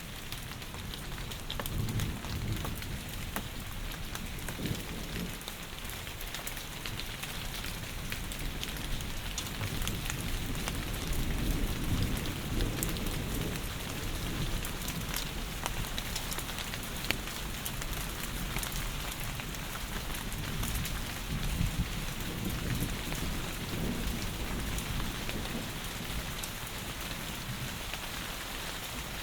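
Heavy rain falling steadily in a dense hiss of fine drops, with low rumbles of distant thunder swelling and fading now and then.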